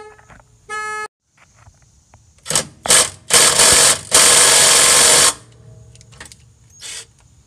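A short car-horn honk just after the start, set off by lying on the key-fob remote. Then a small impact driver hammers in three bursts on the sway bar bushing bracket bolts. The bolts are not breaking loose because the driver is not strong enough for them.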